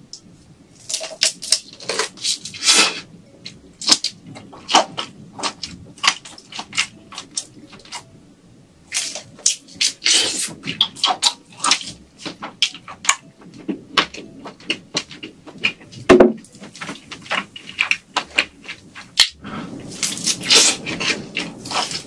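Close-miked shrimp-eating sounds: many sharp crackles, clicks and wet smacks in irregular clusters, from chewing and handling the shrimp. A single louder thump comes about two-thirds of the way through.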